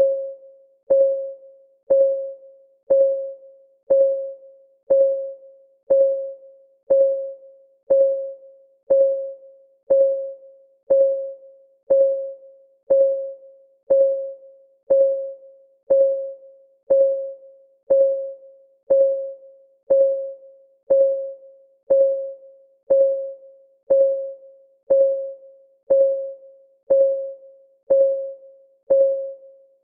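Countdown timer's clock ticking sound: one tick every second, evenly paced. Each tick is a sharp click with a short, pitched ring that quickly fades.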